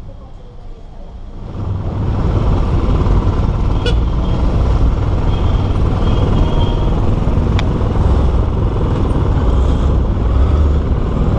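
Motorcycle engine running, a steady low rumble that comes in about two seconds in, with two sharp clicks partway through.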